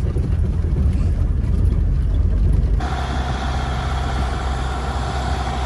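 Farm tractor engine running. About three seconds in, the sound changes abruptly to a steadier engine drone with a hiss above it.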